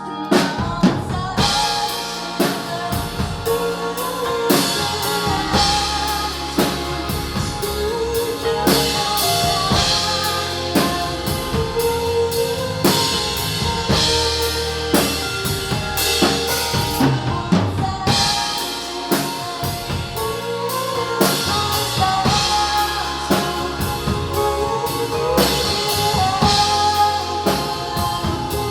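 Band music: a drum kit with bass drum and snare keeping a steady beat under a melodic line.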